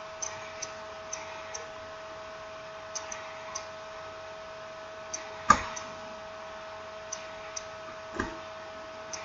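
Irregular small clicks and taps of tools and phone parts being handled during smartphone reassembly, with a louder knock about five and a half seconds in and another about eight seconds in. A steady faint high hum runs underneath.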